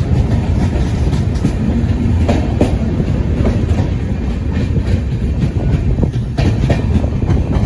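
Indian Railways express train running at speed, heard from a coach doorway: a steady low rumble with the wheels clicking irregularly over rail joints.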